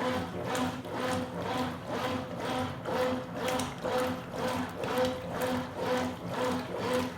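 Consul Supercargo 8 kg top-load washing machine agitating a load of towels in rinse water. Its motor hums and water sloshes, with the agitator reversing about twice a second in an even rhythm.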